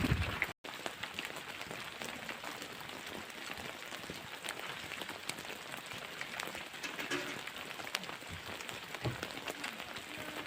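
Steady rain pattering, a fine hiss dotted with many small drop ticks. It breaks off for an instant about half a second in.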